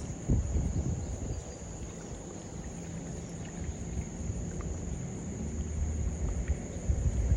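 Insects, crickets or katydids, trilling in one high, unbroken tone, over a low, uneven rumble.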